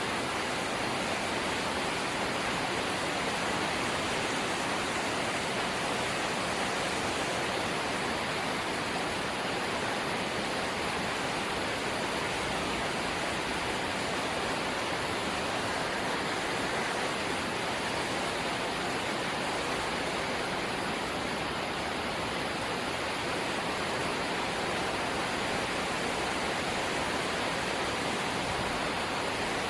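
Steady hiss of light rain falling, even and unbroken throughout.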